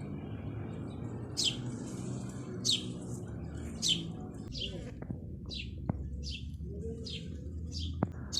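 A bird chirping repeatedly: short, high, downward-sliding chirps about once a second, coming a little faster in the second half, over a steady low rumble. Two faint clicks sound in the second half.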